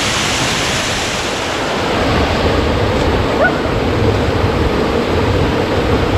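Steady rush of a waterfall. From about two seconds in, a low rumble of wind on the microphone joins it.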